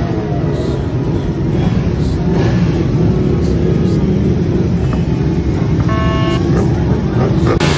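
Motor vehicle engines running steadily, with a brief pitched tone about six seconds in.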